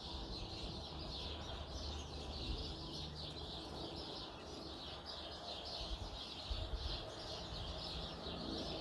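A flock of small birds chirping continuously, many short overlapping chirps at once, over a low rumble that swells twice.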